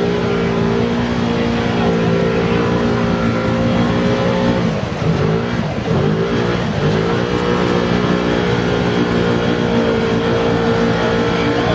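Whine of radio-controlled trucks' electric motors and gears running at a steady pitch. About five seconds in, the pitch drops and climbs back twice as the throttle is eased and reapplied, then it runs steadily again.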